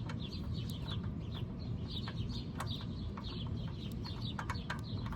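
Birds chirping repeatedly in the background, with a few light, sharp clicks over a steady low hum.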